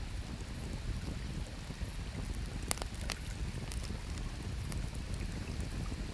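Wood fire crackling, with scattered sharp pops, the clearest about two and a half and three seconds in, over a steady low rush of flowing river water.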